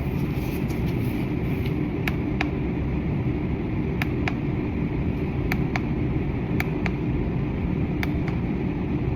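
Small plastic button on a portable Bluetooth speaker clicking in quick press-and-release pairs, several times over, as the RGB light modes are cycled. A steady low background hum, like traffic or air conditioning, runs underneath.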